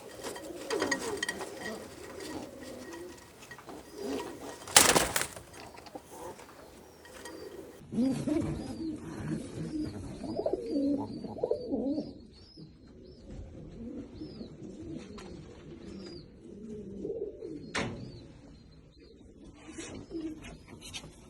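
Fancy pigeons cooing in repeated low, warbling phrases. There is a sharp knock about five seconds in and another near the end, and faint high bird chirps come in around the middle.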